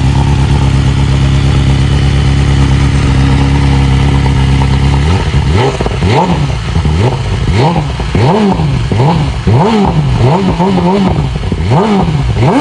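BMW S1000RR's 999cc inline-four idling steadily through an Akrapovic full exhaust system with Akrapovic headers. About five seconds in, a string of quick throttle blips begins, the revs rising and falling roughly once or twice a second.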